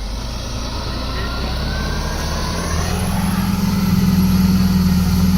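Diesel engine of a heavy earthmoving machine running under load, growing louder and rising slightly in pitch about three seconds in.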